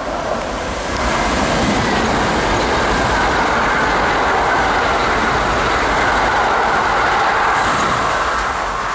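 A Kintetsu 21000 series Urban Liner eight-car limited express train passes through the station without stopping, with steady, loud running noise of wheels on the rails. The noise builds about a second in and eases off near the end.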